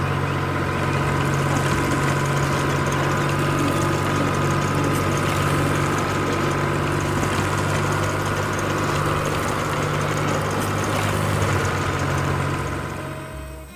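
Heavy vehicle engine running steadily, fading out near the end.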